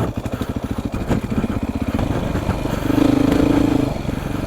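Beta 480 RR dirt bike's four-stroke single-cylinder engine running under way. It gets louder and higher as it is opened up about three seconds in, then eases off just before the end.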